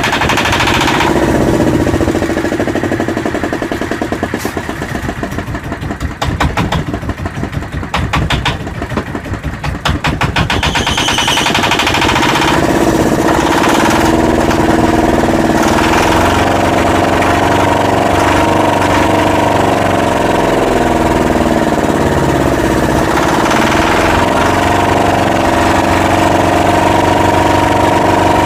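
Yanmar SB12 single-cylinder marine diesel running just after its fuel line repair. It pulses unevenly for about the first ten seconds, then settles into a steady idle.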